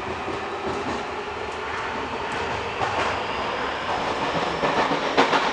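Toei Mita Line train running, heard from inside the carriage: a steady rumble and rail noise that grows louder toward the end, with a few clicks of the wheels just before it ends.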